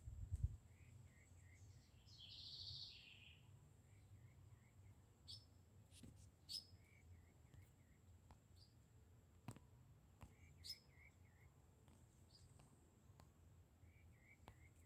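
Faint wild birds calling: one bird repeats short groups of three or four soft notes every few seconds, while others give a few sharp high chirps and one brief rasping call about two seconds in, over a steady thin high-pitched tone.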